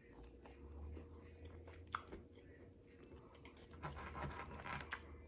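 A person chewing food, faint, with soft wet mouth sounds and small clicks.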